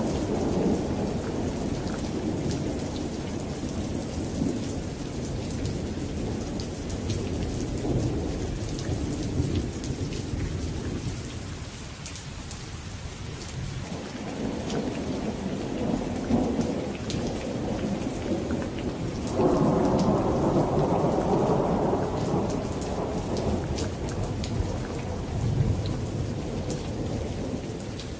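Thunderstorm: steady rain falling, with rolling thunder that rumbles on and off, dies down near the middle, then breaks out louder with a sudden clap about two-thirds of the way through before fading back.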